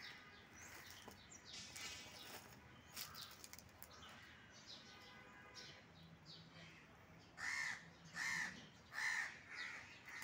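Bird calls: four or five loud calls in quick succession, starting about seven seconds in, over fainter short chirps throughout.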